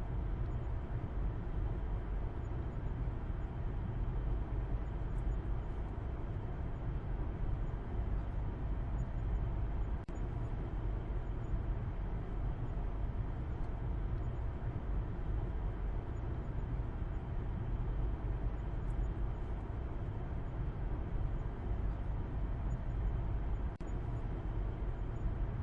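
Steady low rumble of a car driving: even road and engine noise, deepest in the bass, with no change in pace.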